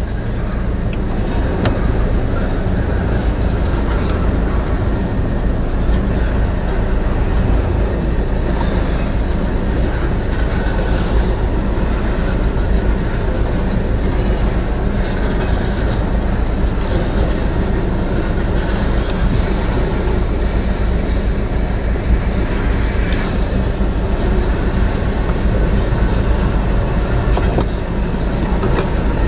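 Manifest freight train cars, tank cars and covered hoppers, rolling steadily past on the rails: the continuous noise of steel wheels on rail, strongest in the low end.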